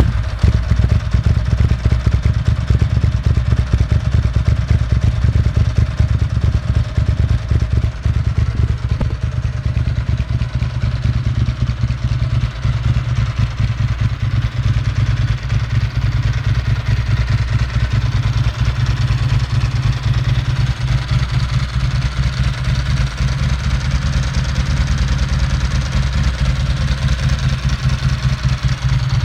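2002 Ducati Monster S4's 916 cc V-twin idling steadily through Spark aftermarket mufflers, a deep, even pulsing exhaust note.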